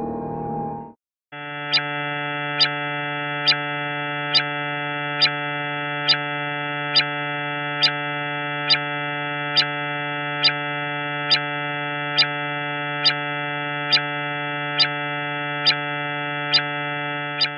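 Steady synthetic drone, a buzzy held tone with many overtones, with a sharp tick repeating evenly a little more than once a second. It begins about a second in, after the previous sound fades out and a brief gap.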